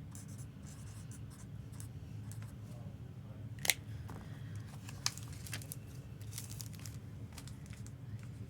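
Faint handling noises with two sharp clicks about a second and a half apart, over a steady low hum.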